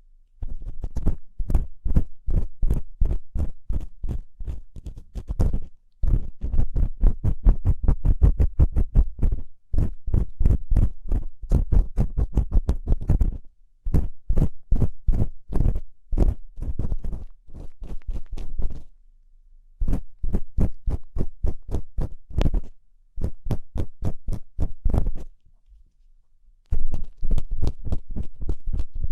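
Ear-cleaning tool scraping and rubbing inside an ear-shaped microphone, ASMR ear cleaning of crunchy earwax: quick scratchy strokes about five a second, in runs broken by short pauses.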